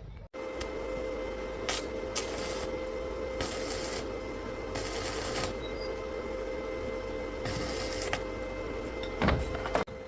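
A steady machine drone with a constant whine, broken by about five short hissing bursts, and two sharp knocks near the end.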